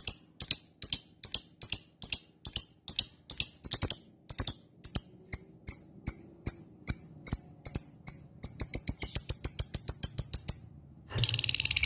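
Lovebird calling in a regular series of sharp, high chirps, about three a second, which quicken into a faster run later on. After a short break near the end, a dense, rapid chattering trill (the 'ngekek') begins.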